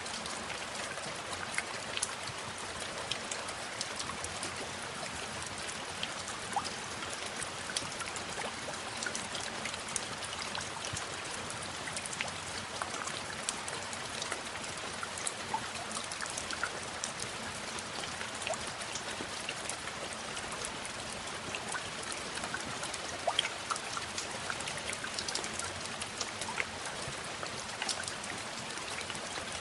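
Steady rain falling, with many separate drops striking close by over an even hiss.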